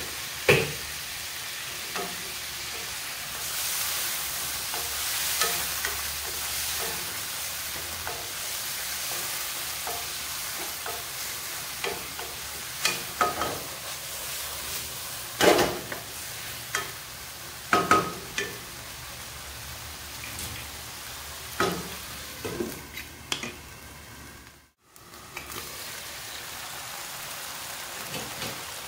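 Chicken pieces sizzling in hot oil in a nonstick wok, with a wooden spatula stirring and tossing them and now and then knocking against the pan. The sizzle cuts out for a moment near the end.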